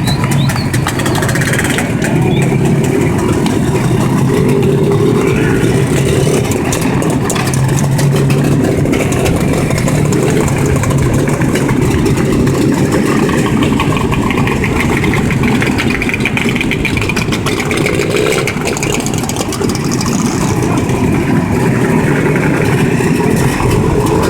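JAWA two-stroke motorcycle engines running continuously.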